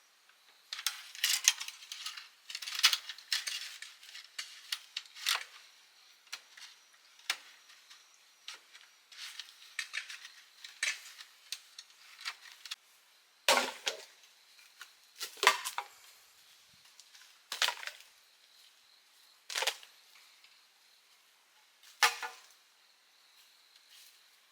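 Knocking and clattering of bamboo being worked: a busy run of irregular light knocks, then five sharper strikes about two seconds apart.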